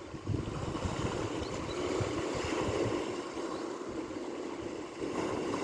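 Ocean surf washing on the shore, a steady rushing noise that swells about a third of a second in and again near the end.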